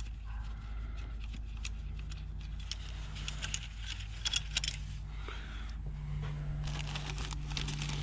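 Small metal parts clinking and rattling as they are handled, in scattered light clicks with a quick cluster about halfway through and denser ticking near the end, over a steady low hum.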